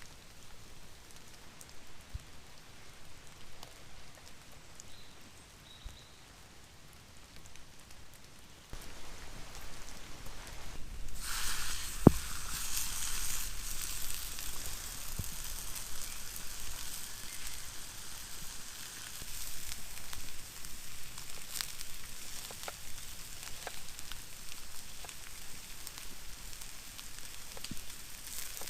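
Light rain patters for the first third. Then a loud sizzle starts suddenly: pork steak frying in a cast iron skillet over a campfire. It carries on steadily, with scattered crackles and pops.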